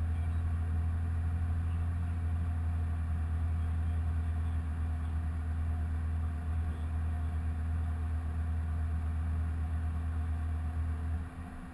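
2015 Corvette Z06's supercharged 6.2-litre V8 running at a steady speed, a constant drone. Near the end the pitch falls and the sound drops away as the engine slows.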